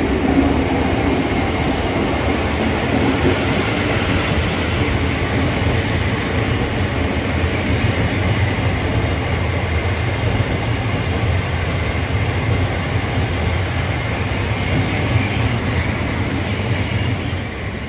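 A passenger train running through the station, a steady loud rumble of wheels and traction that eases slightly near the end.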